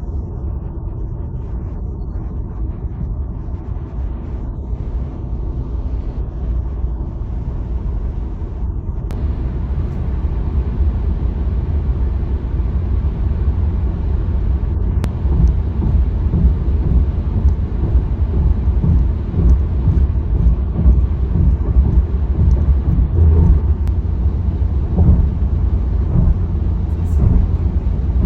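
Steady low road rumble of a Tesla on the highway, tyre and wind noise with no engine note, growing louder and rougher from about a third of the way in.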